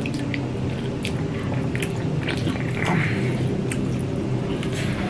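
Close-up eating sounds: wet chewing, lip-smacking and biting as a man bites a piece of fish curry held in his fingers, with many short clicks and crackles. A steady low hum runs underneath.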